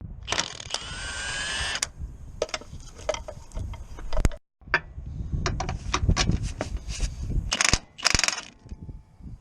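Tool work on a car during a clutch job: a power tool's motor whines up in pitch for about a second and a half. Then come irregular metallic clicks, ratcheting and clatter of tools on parts.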